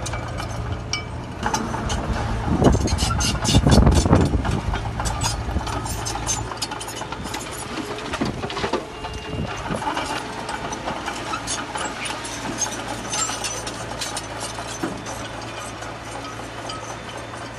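Heavy construction machine's diesel engine running, with a loud low surge about three seconds in, amid scattered clatter and ticks like rock and gravel being moved. The steady engine drone falls away about six and a half seconds in, leaving fainter clatter and a distant engine.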